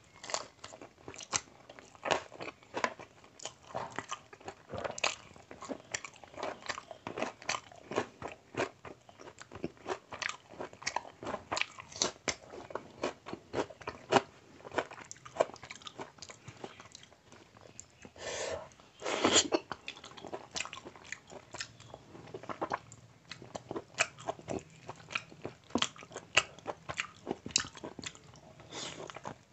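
Close-miked mouth sounds of eating a handful of rice and mutton curry: a steady run of wet chewing and lip-smacking clicks, with one louder, longer wet sound about two-thirds of the way through.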